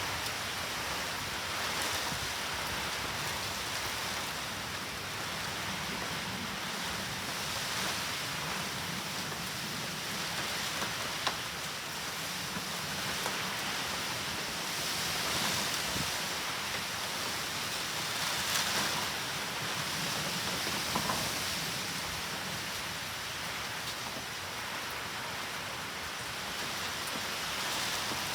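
Steady heavy rain from a typhoon, falling and pattering on surfaces, with a few brief taps of drops.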